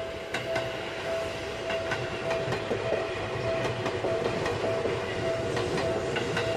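Seibu Railway electric train running past, its wheels clicking over rail joints as the running noise builds slightly. A steady high tone pulses about every half second throughout.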